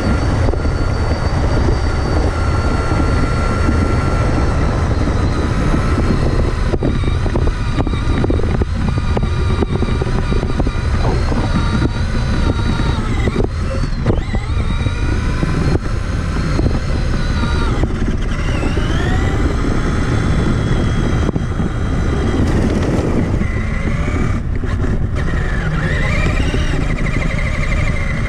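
Traxxas Summit electric RC truck heard from a camera mounted on it: its motor and geartrain whine, the pitch rising and falling with the throttle, over a loud, steady rumble from the chassis.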